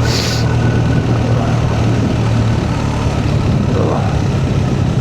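BMW R1250R's boxer-twin engine running steadily at low speed in a low gear on a steep climb, with a constant hiss over it and a brief higher hiss in the first half-second.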